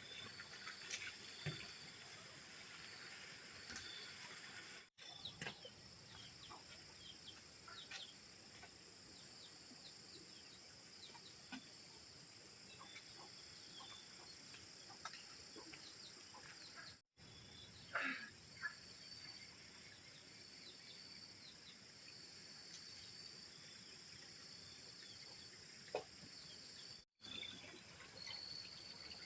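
Faint outdoor rural ambience: a steady high-pitched hum with scattered small knocks and clicks and occasional bird calls, broken by three brief dropouts.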